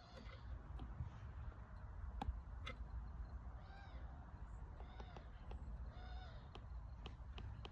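An animal gives three short calls, about a second apart, over a steady low outdoor rumble, with a few scattered sharp clicks.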